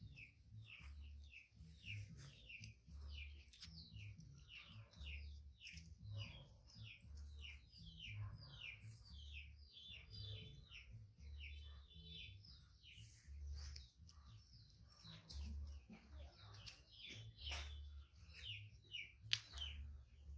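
Faint birds chirping, a steady run of short falling chirps several times a second, over a low throb that pulses about once a second.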